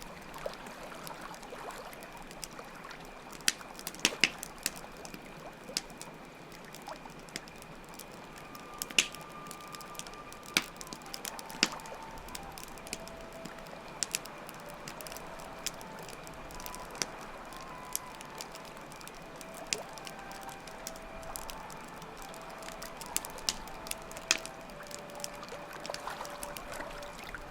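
Campfire crackling with sharp, irregular pops over a steady wash of running water, crickets chirping in a constant high trill, and a flute playing a slow melody of long held notes from about nine seconds in.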